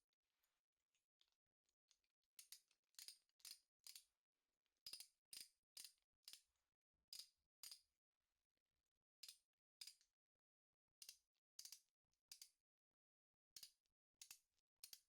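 Socket wrench ratchet clicking faintly, about two clicks a second in short runs of two to four with pauses between.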